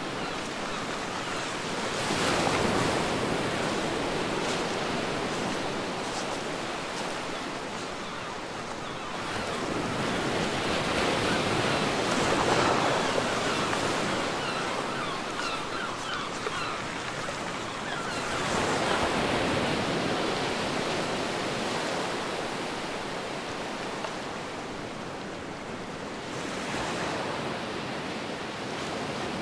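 Ocean waves breaking and washing up on a beach, swelling and fading in long surges about every eight seconds.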